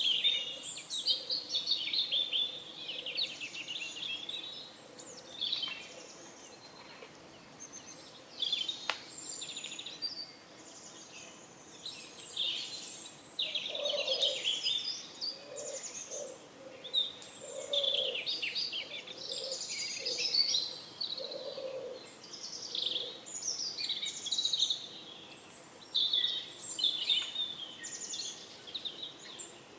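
Many small birds chirping and twittering continuously in a morning chorus. In the middle stretch there is a series of low, soft notes typical of pigeons cooing.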